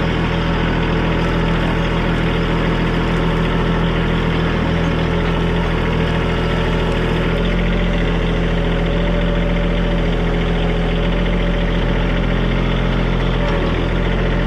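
Diesel engine of a TYM compact tractor running steadily at working speed, its pitch shifting slightly about halfway through.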